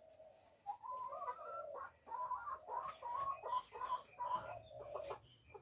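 Backyard hens clucking, a quick run of short overlapping calls that starts about a second in and carries on almost to the end.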